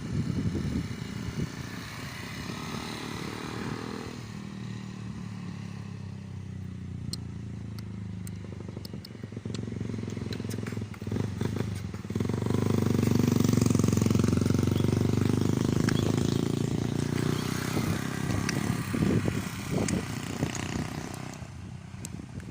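Motorcycle engine running, getting louder about halfway through and staying loud for several seconds before easing off.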